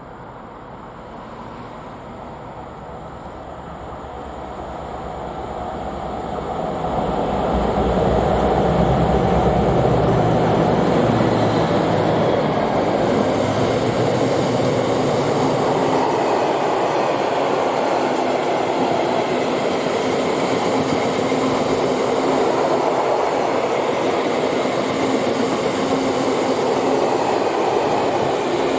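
A diesel-hauled freight train approaching and passing. The sound grows over the first seven seconds or so, with the locomotive's engine loudest around eight to twelve seconds in, then gives way to the steady rolling noise of the wagons going by.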